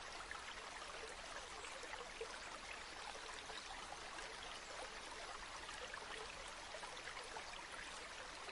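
River water flowing steadily: a faint, continuous babble with small splashy specks and no pauses.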